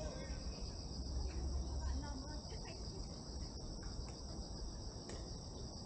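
Steady insect chorus: a continuous high chirring that does not change. Under it a low rumble, strongest in the first two seconds.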